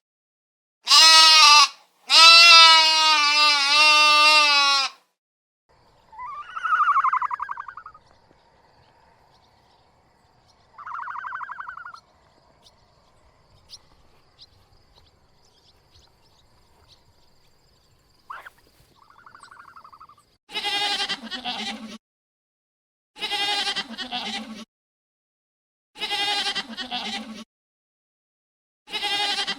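Bleating livestock: two loud, quavering calls at the start, a few shorter, higher-pitched calls in the middle, then four evenly spaced bleats of about a second and a half each near the end.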